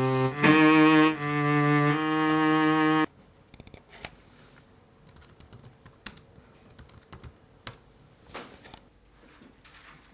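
A loud pitched tone rich in overtones, held in three or four steady notes that step in pitch, cutting off suddenly about three seconds in. Faint, irregular clicking like typing on a computer keyboard follows.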